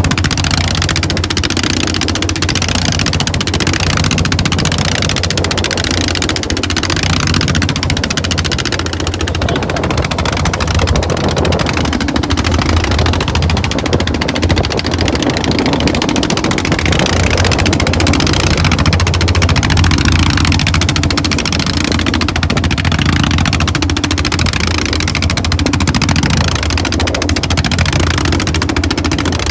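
Boat engine running steadily: a continuous low drone with a rushing hiss over it.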